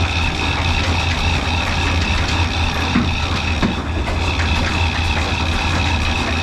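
Old black Ruston diesel engine running steadily at a constant speed while driving a flour mill, with a steady high-pitched whine over the low engine beat.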